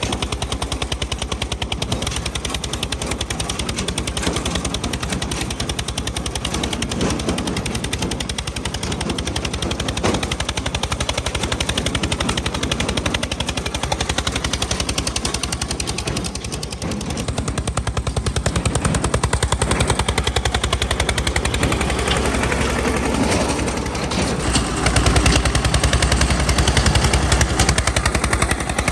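Eicher 242 tractor's single-cylinder diesel engine running, a rapid, even chugging of closely spaced beats. Near the end it grows louder and heavier.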